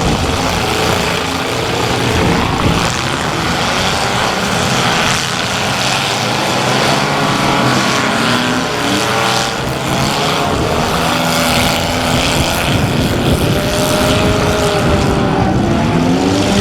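Several compact cars' engines running and revving together in a demolition derby, their pitches rising and falling, with more engines revving in the second half.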